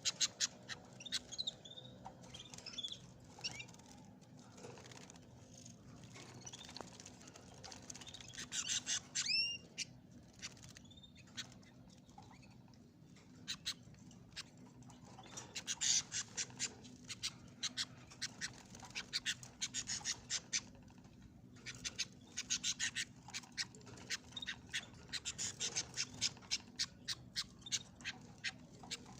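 Canaries and goldfinches chirping in many short, sharp calls, with a few sweeping calls about a third of the way in, over a low steady hum.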